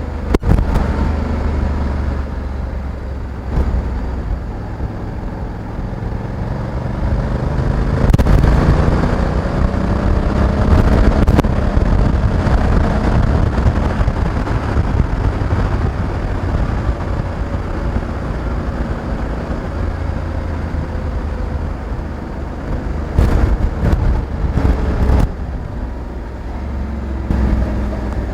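Honda Africa Twin 1100 DCT's parallel-twin engine running under way, with a low rumble. Its note rises about eight seconds in as the bike accelerates, then eases off. A few short knocks come near the end.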